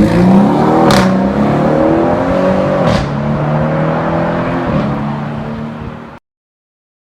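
Audi RS7's 4.0-litre twin-turbo V8 with an Akrapovic Evolution Line exhaust accelerating, revs rising through the gears with a sharp crack at each upshift, about one and three seconds in. The sound cuts off suddenly about six seconds in.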